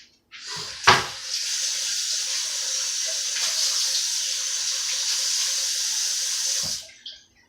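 Kitchen tap running into a sink for about six seconds, with a sharp knock just after the water starts, then shut off.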